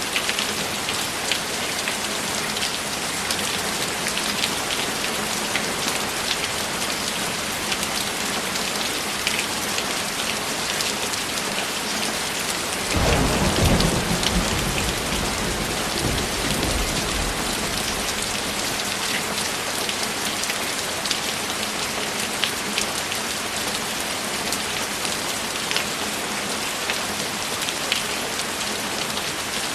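Steady rain falling, with scattered individual drops tapping. About 13 seconds in, a roll of thunder rumbles in suddenly and fades away over several seconds.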